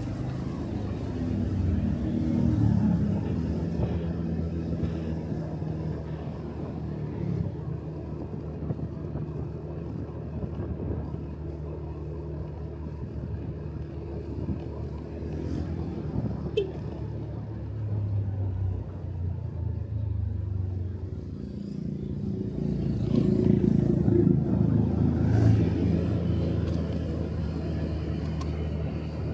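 Small motorcycle engine running under way, heard from the rider's seat with road noise. It grows louder about three-quarters of the way through.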